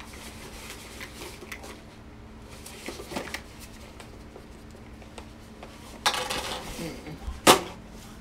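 Handling noise: cloth rustling and small knocks as a large plastic doll is moved about, with a louder rustle about six seconds in. A single sharp thump, the loudest sound, comes near the end as the doll is put down. A faint steady hum runs underneath.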